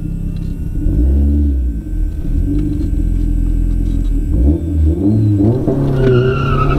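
Car engine running with a deep rumble, revved up and back down about a second in and revved again in the last couple of seconds.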